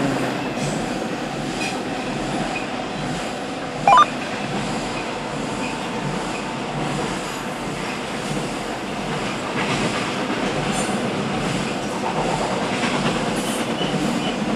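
Norfolk Southern intermodal freight train with stacked containers rolling steadily across a steel girder railroad bridge: a continuous rumble of wheels on rails, with a brief loud squeal about four seconds in.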